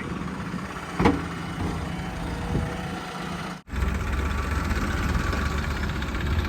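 Heavy diesel engine of construction machinery running steadily, with a single sharp knock about a second in. It becomes louder and deeper after a brief cut just past halfway.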